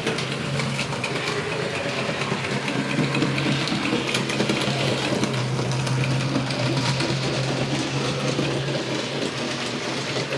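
Model railway locomotive running on the track: a steady low electric-motor hum with a fine rattle of wheels on the rails, quite noisy.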